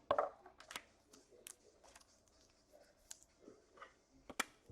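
Trading cards being handled on a table: soft rustles and scattered sharp clicks and taps as cards are slid and set down.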